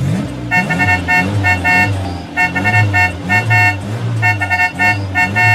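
Cartoon car sound effects: a car horn beeping in quick, repeated runs of short toots over a low engine sound that keeps rising in pitch as it revs.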